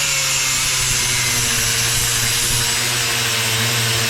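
Angle grinder running steadily as it cuts through a car's wiring loom, a loud continuous grinding noise with a steady whine.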